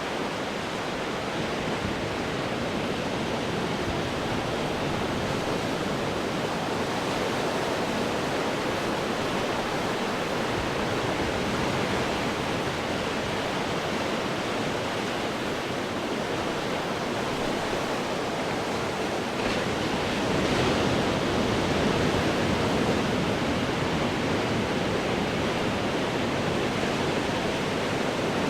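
Ocean surf breaking and churning against rocks as a continuous rush of water, with a louder wave surging in about two-thirds of the way through.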